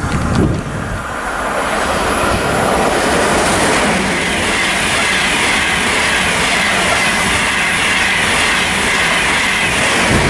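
ICE 1 high-speed electric train passing at speed on the through track: a loud, steady rush of wheels on rail. It builds over the first two seconds and then holds.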